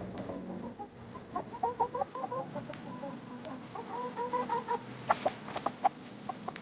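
Domestic chickens clucking in quick runs of short, repeated notes, followed about five seconds in by a handful of sharp taps.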